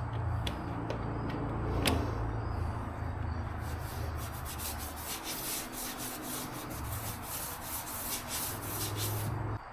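A wrench loosening the small 3/8 nuts on the rear trim from inside the trunk: a few separate clicks, then a fast run of clicks at about five a second for several seconds.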